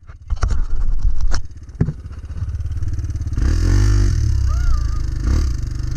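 Dirt bike engine coming in suddenly with a few sharp knocks over the first two seconds, then running steadily. It revs up and back down about three and a half seconds in.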